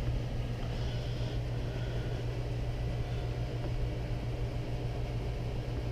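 Steady low background hum with a light even hiss, the room tone of a workshop; no distinct tool sound stands out.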